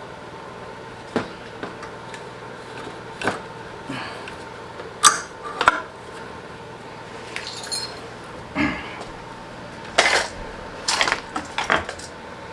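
Irregular metallic clinks and knocks as a stiff metal bracket for the secondary air system is forced and bent by hand, with the loudest knocks about five and ten seconds in.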